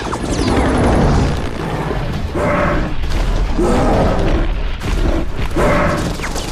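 Action-film sound mix of booms and crashes under orchestral score, with three short, louder pitched bursts spread through the middle and latter part.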